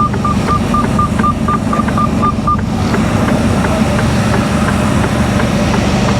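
Lorry's diesel engine running steadily, heard from inside the cab, with a rapid electronic beeping of about four beeps a second that stops about two and a half seconds in.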